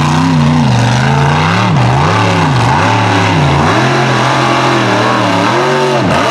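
Supercharged big-block V8 of a mega truck running loud, its revs dropping and climbing back several times as the throttle is worked.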